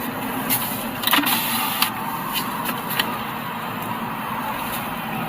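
Burning crashed jet aircraft giving a series of sharp pops, small explosions in the fire, over the steady noise of passing road traffic.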